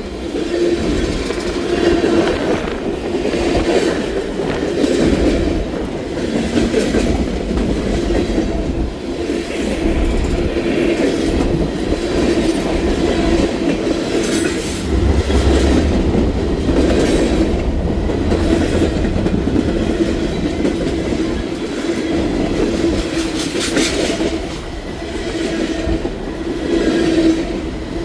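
Freight cars of a BNSF train rolling past at speed: a steady rumble of steel wheels on rail with a repeated clickety-clack as the wheels cross rail joints.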